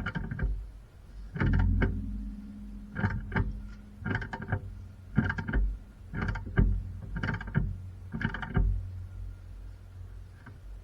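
Repeated blows on a ringing metal part, about one a second and sometimes two in quick succession: a hammer striking metal.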